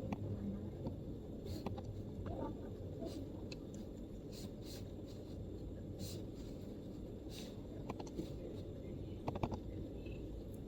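MacBook keyboard keystrokes, sparse and irregular, roughly one click a second with a quick pair near the end, over a steady low room murmur.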